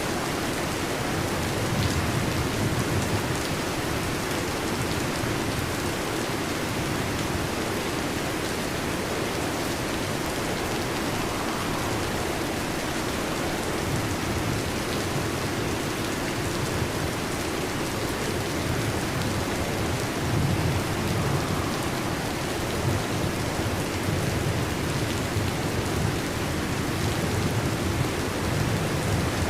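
Heavy rain falling steadily, with low rolls of thunder swelling and fading a few times.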